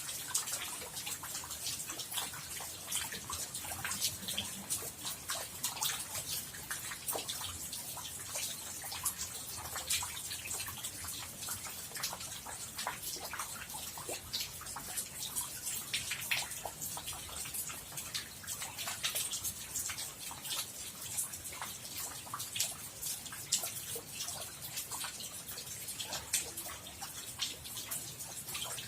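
Rain falling steadily: a constant hiss thick with many separate drops splashing and dripping.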